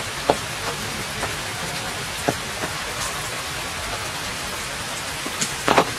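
Steady rain falling on wet ground and shallow puddles, with scattered louder drops and splashes and a short cluster of them near the end.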